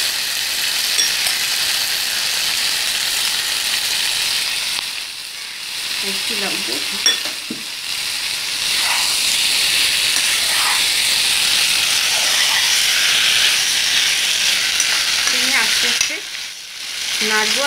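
Chicken and tomato curry sizzling steadily in a pan on the hotplate. The sizzle drops away briefly about five seconds in and again near the end, and there is a single sharp knock about seven seconds in.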